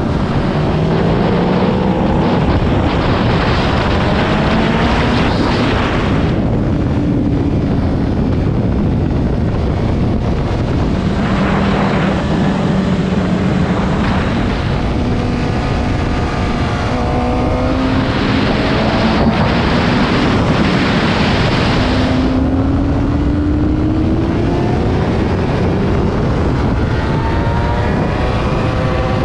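Motorcycle engine at speed on a racetrack, its pitch climbing through the revs and dropping back at each gear change several times over. Heavy wind rushes over the microphone, swelling and easing as the bike speeds up and slows.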